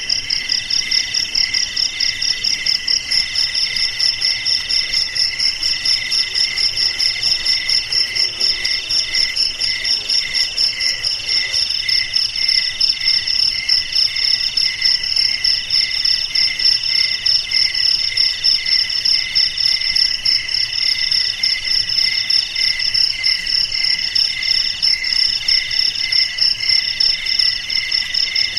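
Crickets chirping in a steady chorus, several insects calling together at different pitches with an even pulsing rhythm.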